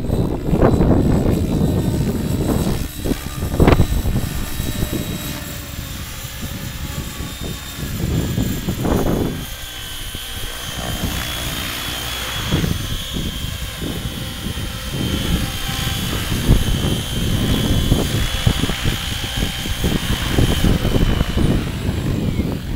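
Align T-Rex 700E electric RC helicopter in flight: a steady high-pitched whine from its motor and rotor, with wind gusting on the microphone.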